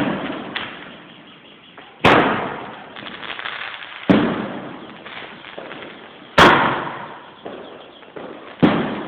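Fireworks exploding: four loud bangs about two seconds apart, each followed by a rolling echo that dies away, with faint crackling in between.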